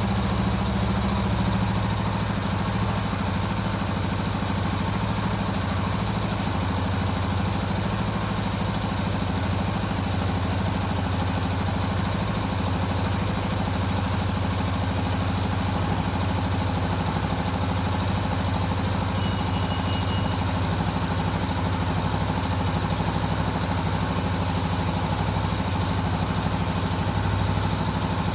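Honda CBR400R's parallel-twin engine idling steadily.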